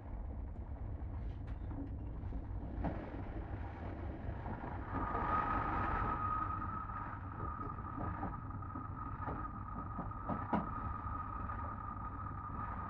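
Inside a Greater Anglia electric train carriage: a steady low rumble with a few short knocks. A steady high-pitched whine comes in about five seconds in and holds.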